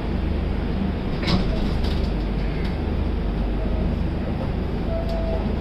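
Steady low rumble of an LHB passenger coach rolling slowly out of a station, heard from its doorway, with a couple of sharp clicks as the wheels cross rail joints.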